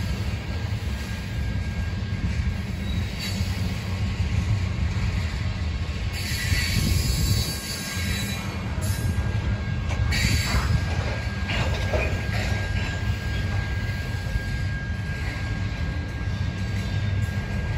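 Train rolling past: a steady low rumble of railcar wheels on the rails, with wheel squeal rising and fading at intervals.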